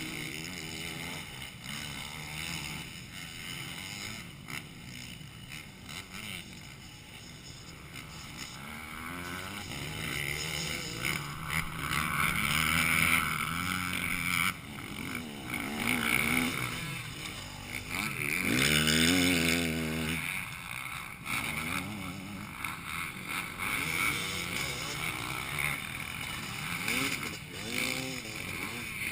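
Motocross bikes running on a dirt track, engines revving up and down through the gears as they come past. The engine note grows louder after a quieter start and is loudest in two close passes, a little under halfway and about two-thirds through.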